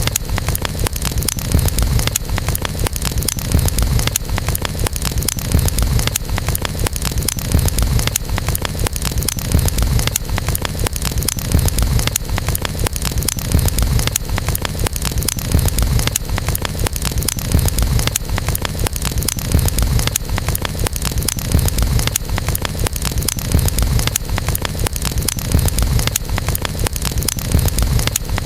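Campfire burning steadily, with constant fine crackling over a low rumble.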